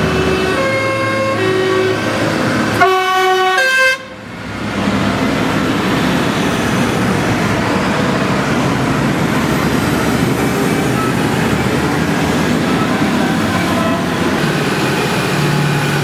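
Tractors passing in procession, tooting their horns, with one long blast about three seconds in, then the steady noise of their engines going by.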